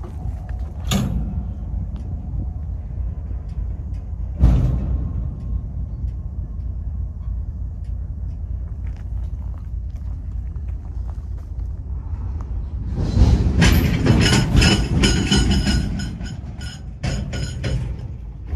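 CSX freight train rolling on the rails with a steady low rumble, punctuated by a couple of sharp knocks. About two-thirds of the way through, a louder burst of metallic squealing and clatter rings out for a few seconds, then the rumble carries on.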